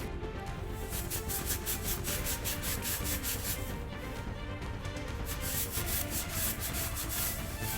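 Repeated rubbing strokes on a surface, a few a second, over background music.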